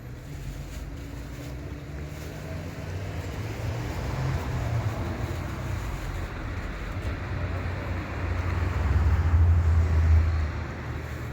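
A motor vehicle's engine and road noise, a steady low rumble that grows gradually louder to a peak about ten seconds in, then eases off.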